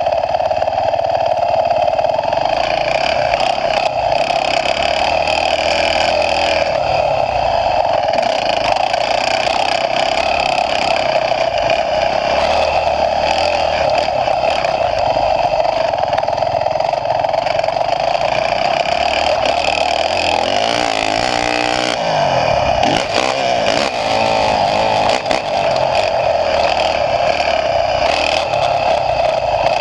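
Motocross dirt bike engine running hard under throttle as it is ridden, picked up close by an onboard camera. The revs rise and fall, with a quick run of revving up and down about twenty seconds in.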